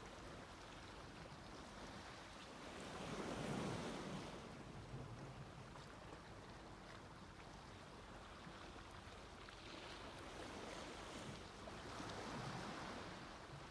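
Small sea waves breaking on a beach: a faint steady wash of surf that swells twice, once about three to four seconds in and again near the end.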